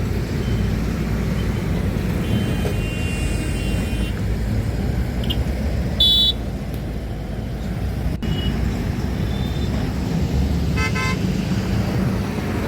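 Steady road traffic rumble with vehicle horns sounding several times: a held honk about two seconds in, a short loud toot about six seconds in, and a rapid beeping horn near eleven seconds.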